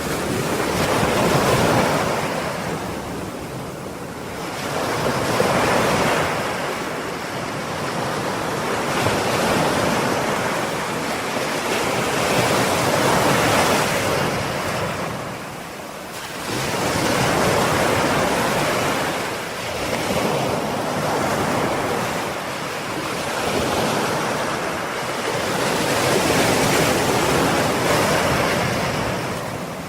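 Ocean surf: waves breaking and washing up the shore, the hiss swelling and fading every four to six seconds.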